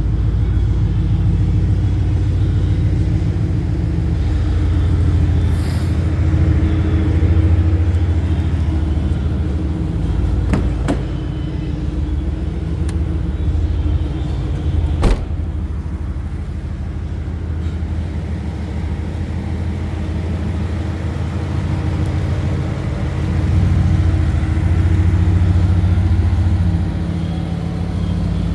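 Turbocharged Saleen S281 Mustang's V8 engine running with a steady low exhaust rumble that swells and eases a few times. There is a sharp click about fifteen seconds in.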